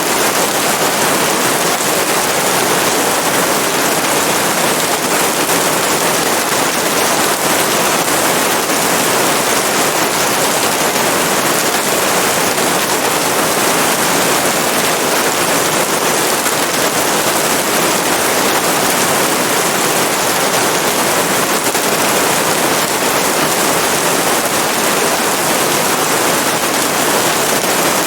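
Steady heavy rain: a dense, even hiss of countless drops pattering on a surface, unchanging throughout.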